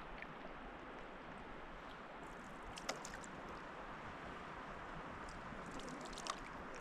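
Quiet, steady wash of river water, with a couple of small splashes, one about three seconds in and one near the end.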